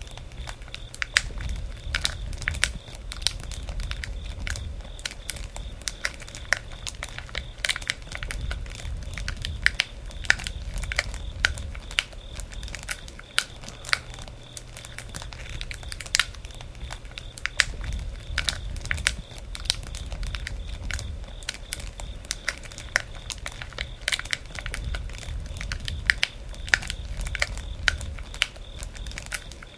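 Wood campfire crackling: irregular sharp pops and snaps from the burning wood over a low rumble of flame that swells and fades.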